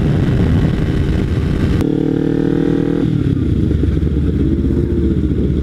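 Kawasaki Ninja 300 parallel-twin with an MGP Growler exhaust running at speed, with wind rush on the helmet microphone. About two seconds in, a steady pitched tone cuts in suddenly for about a second, then the engine settles into a lower, even note.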